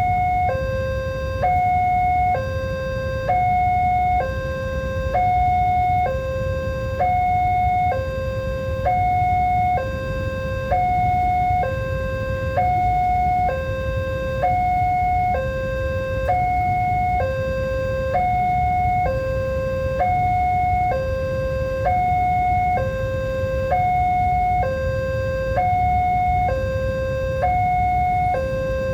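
Level-crossing warning alarm sounding continuously, an electronic two-tone signal alternating high and low about once a second each, over a low steady rumble.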